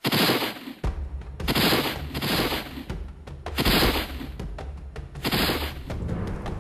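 Dubbed-in gunshot sound effects: a run of about five loud shots, roughly one a second, each fading quickly, over a low sustained music bed.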